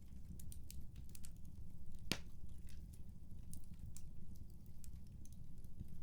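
Wood fire crackling in a fireplace: a low steady rumble with scattered sharp pops, the loudest about two seconds in.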